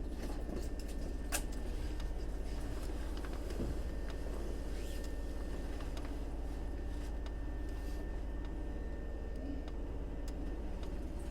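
Inside a Hankyu 3300-series train standing at a station: a steady low hum from the car's onboard equipment. A faint high whine fades out about eight seconds in, and scattered small ticks sound throughout.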